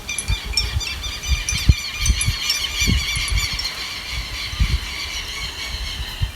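Birds chirping and twittering in a dense run of short rising and falling notes, with wind gusting on the microphone.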